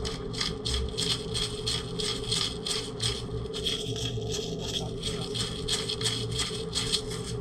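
Rapid, even scraping strokes of kitchen work, about three a second, over a steady hum.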